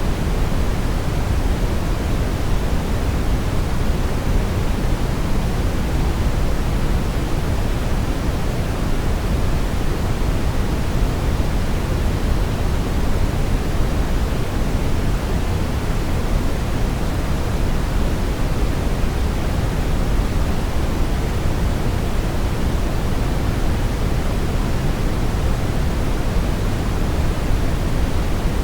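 Brown noise: a steady, unbroken rumbling hiss, strongest in the bass and dull at the top.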